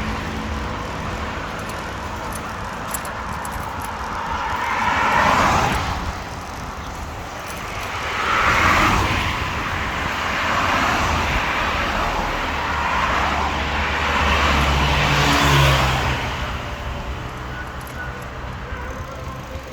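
Road traffic: cars passing one after another, engine and tyre noise swelling and fading about four times over a steady background rumble.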